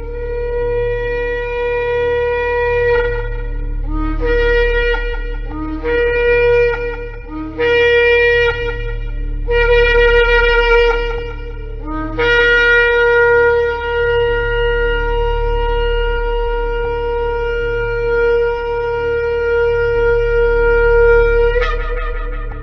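Shofar (ram's horn) sounding a series of blasts. A first blast of about three seconds is followed by four shorter ones, each opening on a brief lower note before jumping up. A long held blast of nearly ten seconds then ends in a sharp upward break near the end.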